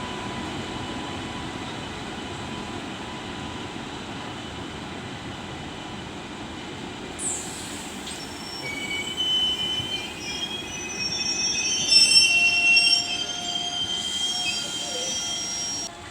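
Express train running on the track with a steady rumble. From about eight seconds in, its wheels begin squealing in shrill, overlapping high tones that grow louder and more uneven toward the end.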